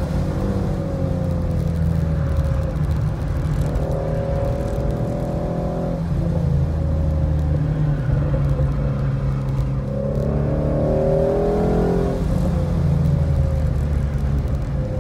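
2017 Ford Mustang's engine heard from inside the car at high revs on a track lap: it runs hard in fifth down the straight, then the note falls as it brakes and rises again about ten seconds in as it downshifts to third for the corner.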